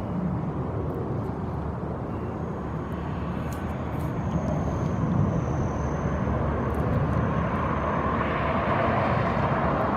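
Airplane engine noise, steady and slowly growing louder, most toward the end.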